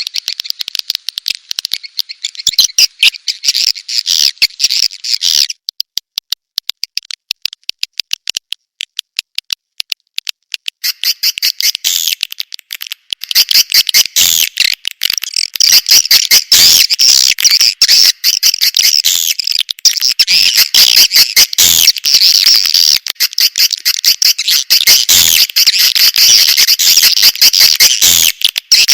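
Swiftlet lure-call recording, the kind played to draw swiftlets into a nesting house: rapid high chirping and clicking twitters. The calls thin to a sparse run of clicks about five seconds in, and dense twittering resumes at about eleven seconds.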